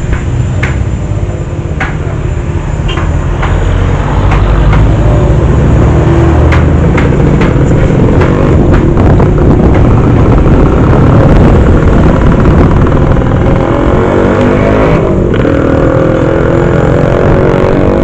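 Motor vehicle running on the road, heard from on board: a steady loud rumble that grows louder about four seconds in, with scattered clicks and rattles.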